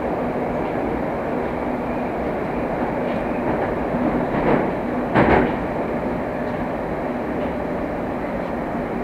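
Moscow Metro train running at speed through the tunnel between stations, heard from inside the carriage: a steady rumble of wheels and motors, with a brief louder clatter about five seconds in.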